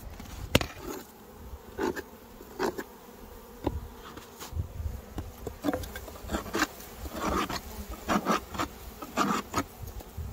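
Honeybees buzzing inside a hive whose entrance is plugged with dead bees, so they cannot get out. Irregular knocks and scrapes on the hive's wood sound over the hum throughout.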